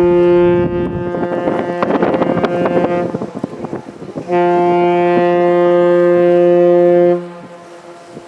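A large ship's horn sounds two long, steady low blasts. The first is broken up by a rough crackling noise partway through, and the second lasts about three seconds before cutting off.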